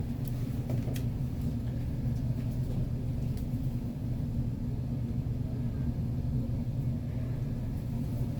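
Steady low rumble, even throughout, with a faint tick about a second in.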